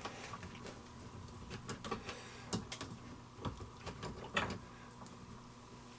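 Faint, scattered clicks and light knocks of hands working the wing nuts on a sailboat engine's raw-water strainer cap, loosening them to reseat the cap evenly and stop a leak.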